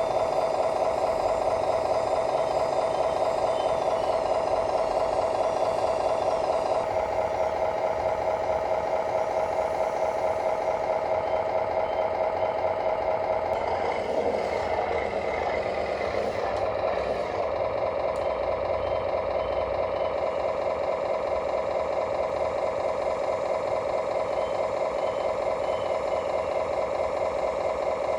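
Electric motors of radio-controlled construction machines whining steadily at one pitch, with a rougher, noisier stretch about halfway through.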